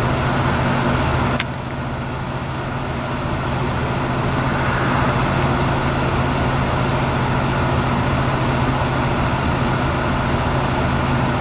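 A vehicle engine idling steadily close by, an even low hum. A single sharp click comes about a second and a half in.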